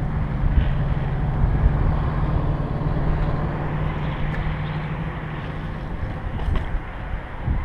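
A steady low mechanical hum under rumbling wind noise on the microphone; the hum fades out about halfway through.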